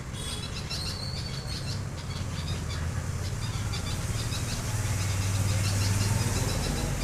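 Small birds chirping in short, high notes over a steady low engine hum, which grows louder from about halfway through.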